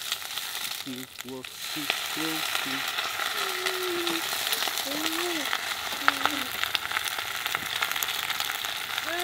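Baby kailan (Chinese broccoli) greens frying in oil in a small pan on a portable gas cartridge stove, stirred with a spatula: a steady crackling sizzle.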